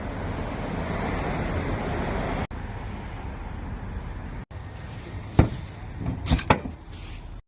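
Steady outdoor traffic and car noise, broken by two abrupt edit cuts, with a few sharp knocks near the end.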